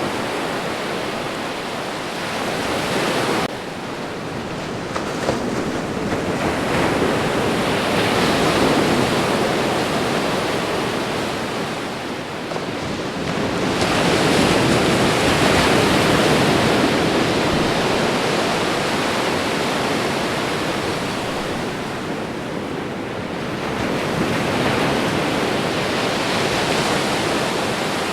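Ocean surf: waves breaking and washing in a steady roar of noise that swells and falls back every several seconds, with a sudden dip in level about three and a half seconds in.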